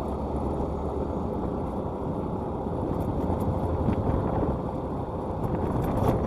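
Motorcycle running steadily at road speed, its engine hum under a steady rush of wind over the microphone.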